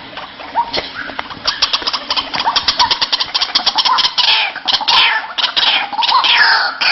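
White-breasted waterhen (ruak-ruak) calling: a rapid run of short, clicking notes about a second and a half in, growing into loud, repeated calls that bend up and down in pitch.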